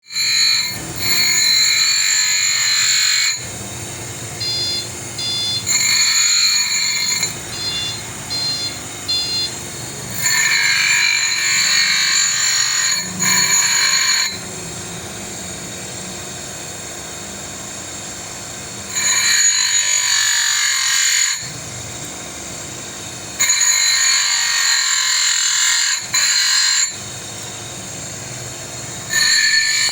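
A power tool grinding metal in bursts of two to three seconds, a loud, high-pitched screech each time, with quieter running in between.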